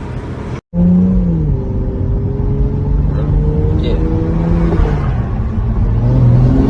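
A car engine running: after a short break less than a second in, its note drops in pitch and then holds steady, easing down slightly near the end.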